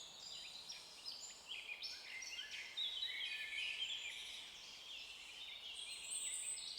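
A faint chorus of many small birds chirping and singing at once, quick overlapping high calls with no pause.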